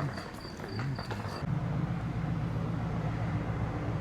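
A short high chirp repeating about four times a second over light clicks cuts off suddenly about a second and a half in. A steady low engine hum takes its place.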